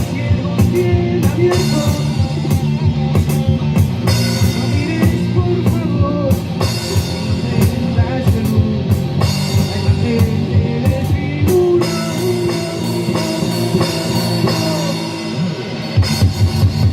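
Live rock band playing an instrumental passage: a drum kit keeps a steady beat under guitar lines. The deep bass end drops away for a few seconds about twelve seconds in, then comes back near the end.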